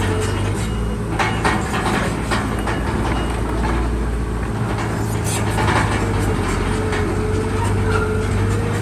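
Crawler bulldozer's diesel engine running steadily, with repeated metallic clanks and a wavering squeal from its tracks.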